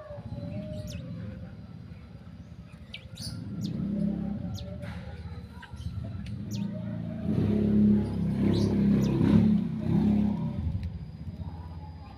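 Black drongo giving short, sharp high chirps at irregular intervals. Under them runs a low rumble that swells and is loudest about seven to ten seconds in.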